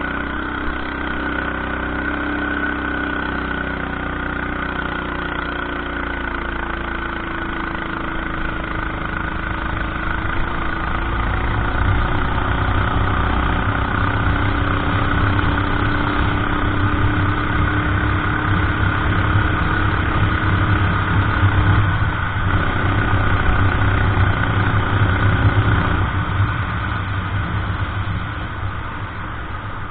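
Go-kart engine running steadily at low revs, as in a pit lane, growing louder about a third of the way in and easing off near the end.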